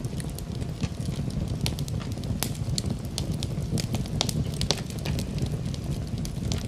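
Wood fire burning in a fireplace: a steady low rumble of flame with many sharp, irregular crackles and pops.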